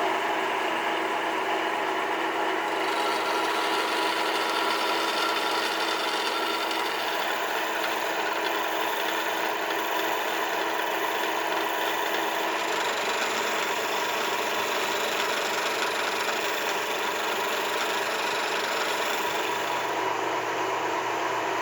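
An electric shop power tool running steadily: a continuous motor hum with a noisy hiss over it.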